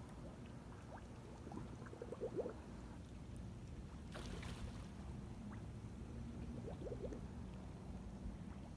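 Mullet making noise in the water: two short bursts of rapid clicking, about four seconds apart, with a brief rush of noise between them, over a low steady water rumble.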